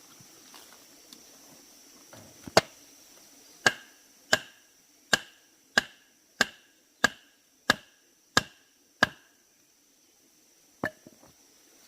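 A blade chopping bamboo in regular strokes, about one and a half a second, each a sharp knock with a short hollow ring. One lone chop comes before the run and another after it.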